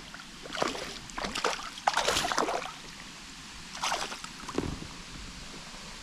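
Several short splashes of water around a kayak, coming in irregular bursts over a few seconds.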